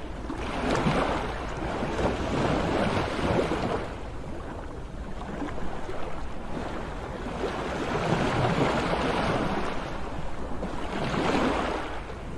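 Sea waves breaking and washing in, the surf noise swelling and fading about three times, over a steady low rumble.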